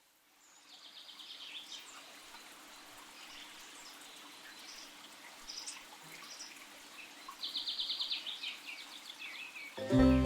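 Wild birds singing over a faint steady background hiss, with chirps and two rapid trills, one about a second in and one near the end. Music comes in just before the end.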